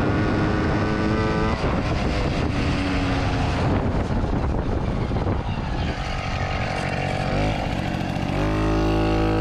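Motorcycle engine running while riding, mixed with road and wind noise. The engine note rises a little past seven seconds in and climbs again near the end as the bike accelerates.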